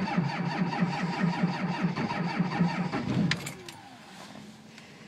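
Starter cranking a cold Cummins 5.9 inline-six turbo diesel whose intake grid heater has been removed. The compression pulses come evenly, about four a second, then the cranking stops about three and a half seconds in without the engine catching, leaving a short falling whine as it spins down.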